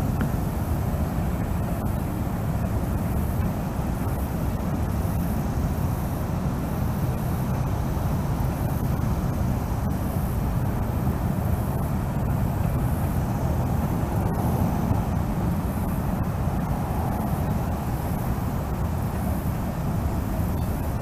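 Train rolling past, a steady low rumble that holds at an even level throughout.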